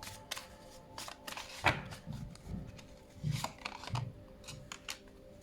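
Oracle cards being handled and shuffled: a string of crisp card clicks and flicks, the sharpest about a second and a half in, with a few soft thumps.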